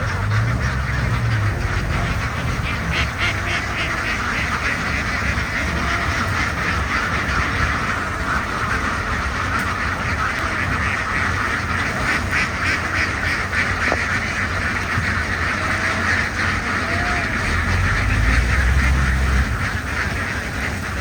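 A large flock of domestic ducks quacking all at once, a dense, continuous chorus of many overlapping calls.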